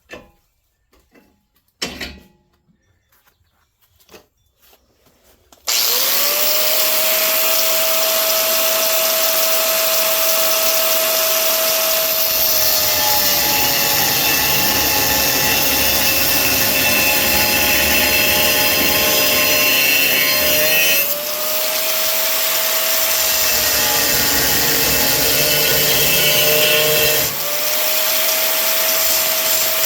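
A few light knocks, then about six seconds in an angle grinder starts abruptly and runs steadily against steel, cleaning up the work. Its whine sags in pitch as it is pressed in and rises again twice when eased off, about two-thirds of the way through and near the end.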